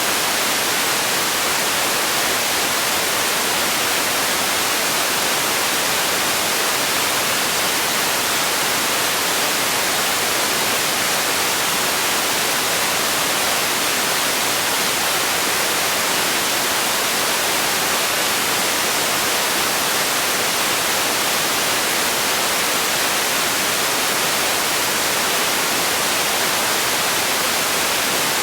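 Steady, unchanging noise like a hiss, strongest in the upper frequencies with little bass, played continuously as a relaxation or sleep sound.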